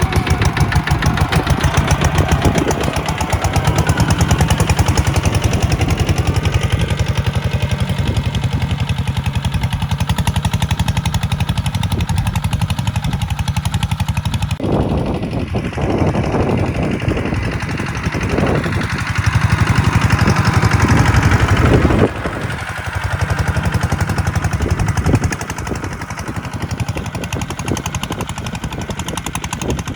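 Tractor diesel engine running under load, a fast, even chug of firing pulses. The sound changes abruptly twice, about halfway through and again about three quarters of the way in.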